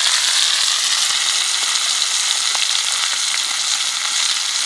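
Catfish frying in hot oil: a steady sizzle with a few small pops.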